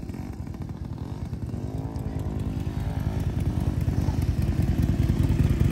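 Harley-Davidson motorcycle engine running with a rapid, even low pulsing, getting steadily louder as the bike draws nearer.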